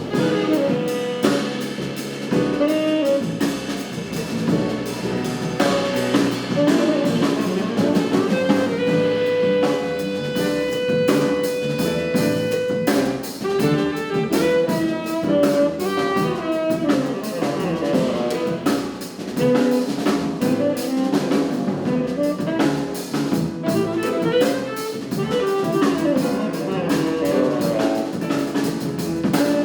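A jazz quartet of saxophone, piano, double bass and drum kit playing an uptempo tune live. About nine seconds in, one long note is held for around four seconds.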